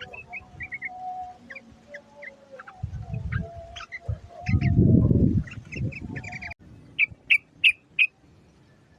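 Yellow-vented bulbul (trucuk) calls used as a lure: many quick chirps with a wavering lower tone, and a loud low rumble about halfway. After a sudden break near the end come four sharp, loud chirps.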